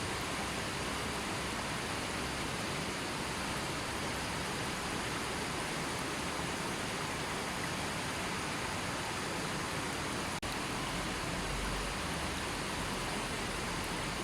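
Gentle river flowing steadily: a constant, even rush of water with no birds or other sounds, broken only by a split-second dropout about ten seconds in.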